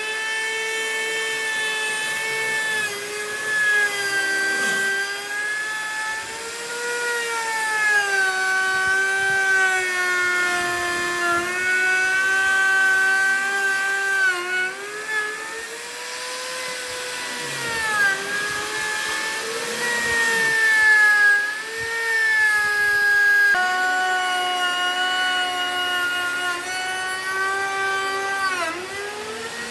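Electric motor of a handheld power tool running continuously, a high whine whose pitch sags and recovers again and again as it is pressed into wood and eased off, with a sharp dip near the end.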